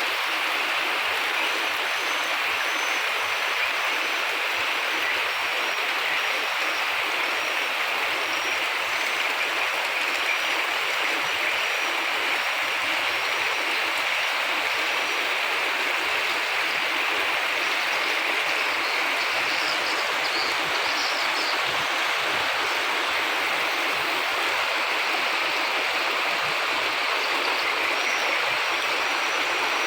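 Steady rain falling: an even, unbroken hiss with no pauses. Faint high-pitched chirping runs through it.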